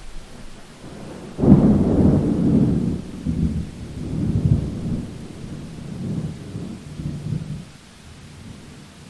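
Thunder during a rainstorm: a sudden loud, deep clap about a second and a half in that rolls on in several swells for about six seconds before dying away, over steady rainfall.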